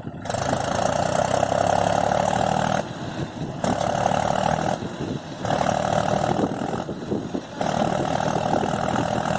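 Mahindra tractor's engine running under heavy load, surging louder and easing off four times in a few seconds, as the tractor works to pull free of the mud.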